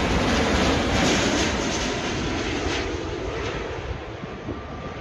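Jet engine noise of a large American Airlines airliner passing low on its landing approach, a loud steady rush that fades away from about two seconds in.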